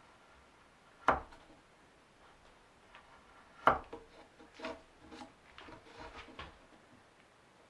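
Wooden parts being handled: two sharp wooden knocks, the second the loudest, then a string of lighter clunks and taps.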